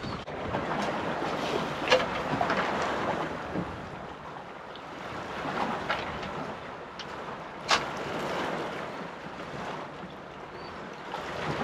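Strong wind buffeting the microphone over water chopping around a small fishing boat, with two sharp knocks, about two seconds in and near eight seconds.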